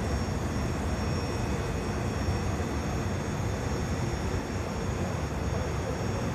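Asagiri engine running steadily on a test run at a constant speed: a dense, unchanging running noise with a thin, steady high whine above it.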